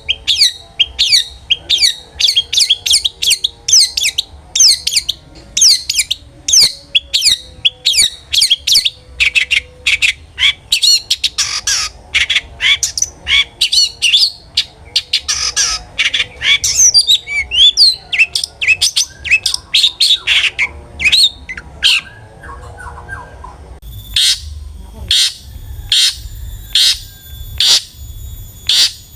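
Long-tailed shrike (cendet) singing a fast, varied song of sharp repeated chips and chatters. About 24 seconds in it changes to a steady run of harsh calls, roughly two a second.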